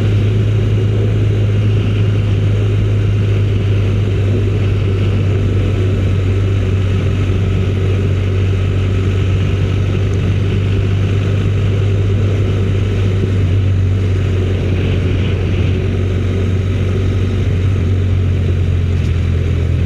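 Motorcycle engine running at a steady cruise with wind and road noise, its low hum dropping slightly in pitch over the last few seconds as the bike eases off.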